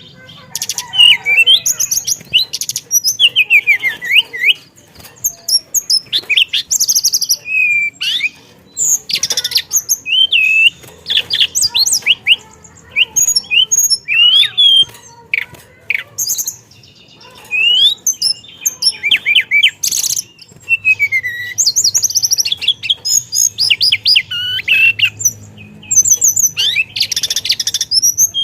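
Teledekan songbird singing continuously in fast, varied runs of high whistles, rising and falling glides and rapid trills, with only brief pauses between phrases.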